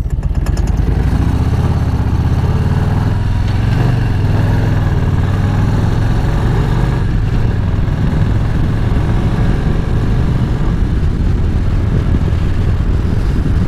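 Harley-Davidson V-twin motorcycle engine running steadily under the rider, its low exhaust note with no break throughout.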